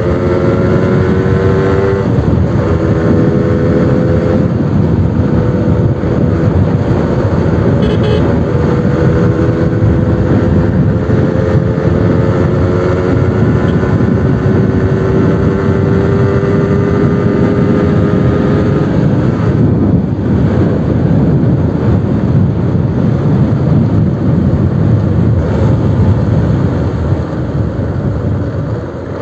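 Suzuki RC100's single-cylinder two-stroke engine running through its new aftermarket exhaust under way, its pitch climbing slowly and dropping back at gear changes a couple of seconds in and again around six seconds. The sound eases off near the end.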